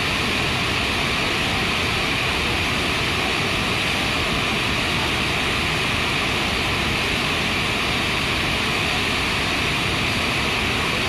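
Waterfall pouring, a constant, unbroken rush of water that does not change.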